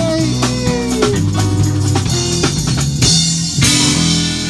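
Live band playing an instrumental break in a country song: guitar over bass and drums, with a cymbal crash about three seconds in.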